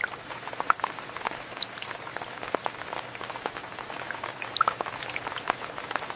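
Rain falling: a steady hiss with irregular close drops pattering and plinking.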